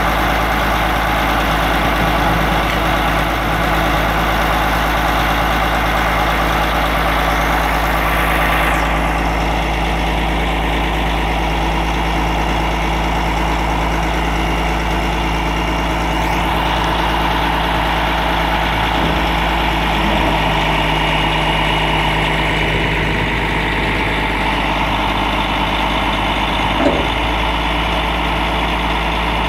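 Heavy equipment's diesel engine running steadily near idle, its tone shifting slightly about a third of the way in, with a brief knock near the end.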